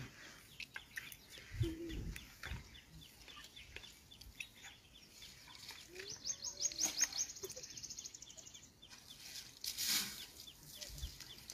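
Faint bird calls: scattered short chirps throughout, with a quick run of rising notes about six seconds in. A short rush of noise comes near the ten-second mark.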